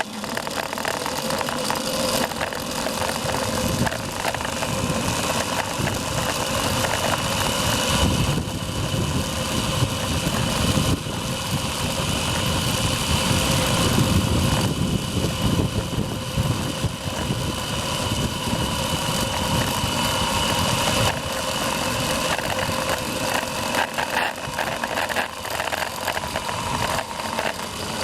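Zipline trolley pulleys running along a steel cable, a steady whine over rushing wind noise that builds to its loudest about halfway through and then eases off.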